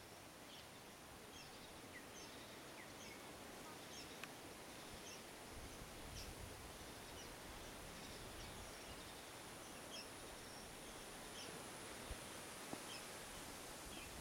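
Faint outdoor ambience: scattered short bird chirps over a steady hiss.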